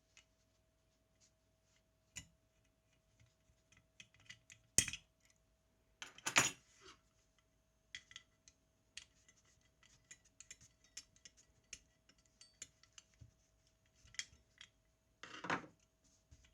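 Small metal tools and parts of a Zenit TTL camera being handled on a workbench: irregular light clicks, taps and scrapes, with three louder brief clatters. A faint steady hum-like tone lies under it.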